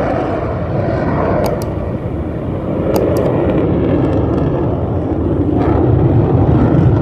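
Aircraft flying over at an air show, a loud steady engine roar.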